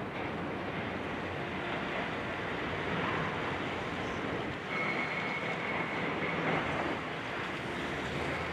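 Steady mechanical rumble of heavy demolition machinery, with a thin high whine for about two seconds midway.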